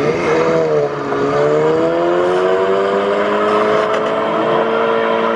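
A car engine pulling away: its pitch dips briefly, then rises slowly as it accelerates and levels off.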